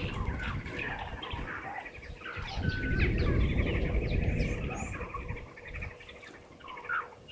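Many short bird chirps and calls over a steady high trill, with a low rumble that is loudest at the start and again around the middle.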